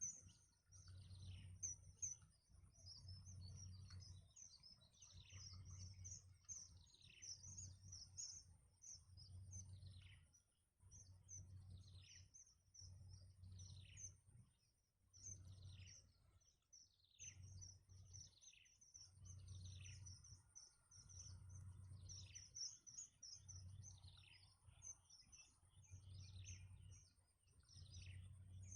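Nestling songbirds chirping: a steady stream of quick, high, falling chirps, typical of chicks begging for food. A soft low throb repeats about every two seconds underneath.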